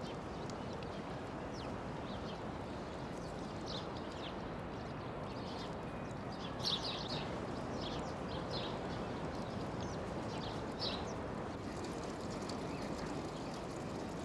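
Birds chirping in short, scattered high calls over steady background noise, the calls strongest about seven and eleven seconds in.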